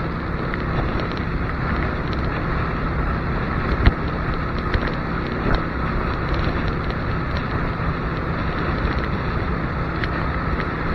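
Motorcycle cruising at about 80 km/h: steady wind rush over the microphone with the engine's drone underneath, and a few sharp knocks, the loudest about four seconds in.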